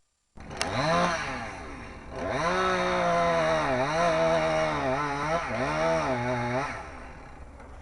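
Two-stroke chainsaw revved briefly about a second in, then held at high speed for about four seconds with several short dips in pitch. It drops lower and fades away near the end.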